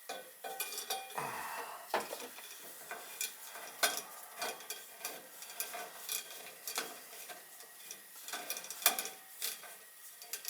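Irregular light metallic clinks and taps, a few of them ringing briefly, as metal objects are handled.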